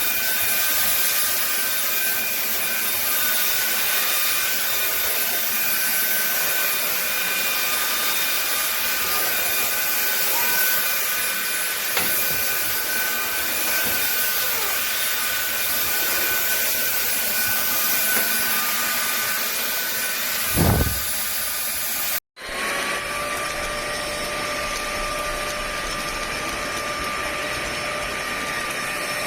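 Fieety 600 W cordless stick vacuum running steadily, a motor hum with a high whine. Near the end there is a short low bump, then the sound drops out for an instant and runs on with a lower-pitched whine.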